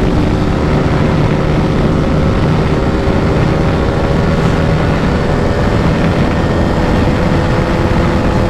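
KTM RC 390's 373 cc single-cylinder engine pulling hard at high revs in fifth gear during a top-speed run, heading toward the rev limiter, with steady wind rush.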